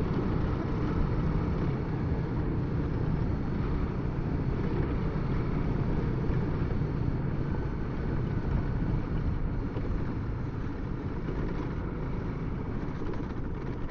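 Honda CRF300L single-cylinder motorcycle engine running at a steady pace on a gravel road, with wind noise, heard through a Bluetooth helmet intercom microphone.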